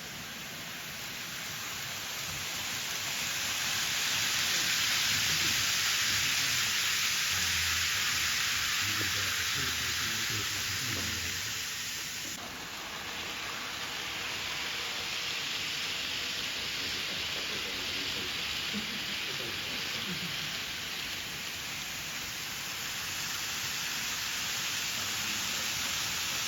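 N-gauge model train running along the layout's track: a steady rolling hiss of small wheels and motor that swells and then eases off, with a sudden change about halfway through.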